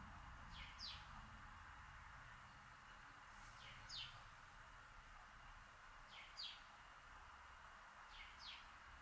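A bird calling faintly in short, quickly falling double chirps, a pair every two to three seconds, over a faint steady hiss.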